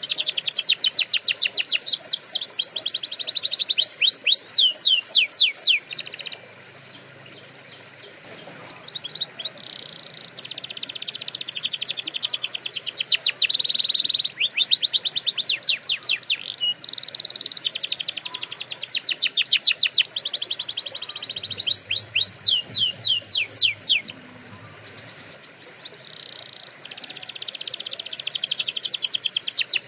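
Domestic canary singing: long, fast trills of rapidly repeated high notes, in phrases broken by two pauses of a few seconds.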